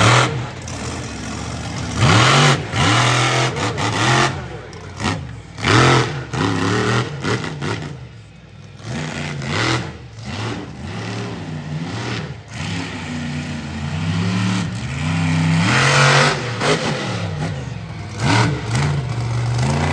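Monster truck engine revving in repeated throttle bursts, its pitch climbing and dropping again and again, with a brief lull about eight seconds in.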